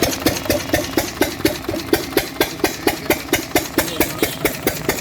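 14 hp Lister-type slow-speed diesel stationary engine with twin flywheels running at a steady idle, a regular beat of about four to five firing strokes a second.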